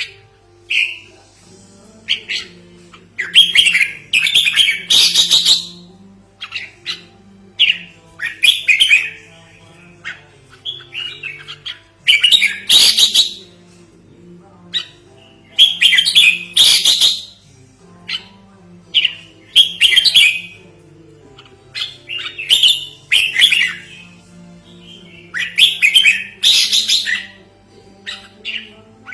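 Red-whiskered bulbul singing: loud, bubbly chirping phrases of a second or two, repeated every few seconds.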